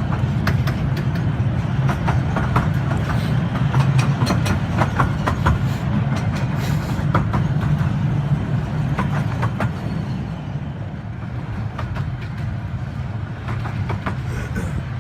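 Romney, Hythe & Dymchurch Railway 15-inch-gauge miniature train running along the line, heard from a carriage: a steady low rumble of wheels on the rails with frequent clicks and rattles. It eases off a little about two-thirds of the way through.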